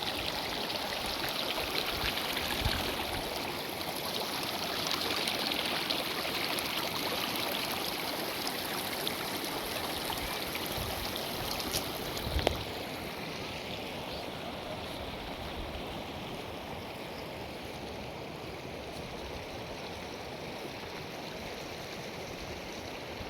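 Steady rush of a mountain stream's flowing water. About halfway through there is a brief knock, and after it the water sounds a little quieter and duller.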